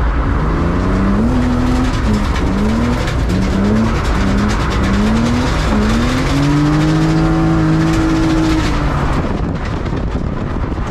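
BMW E36's M52 inline-six engine revving hard on a drift run: its note climbs and falls in a string of short rises, then holds high for about three seconds before dropping off near the end.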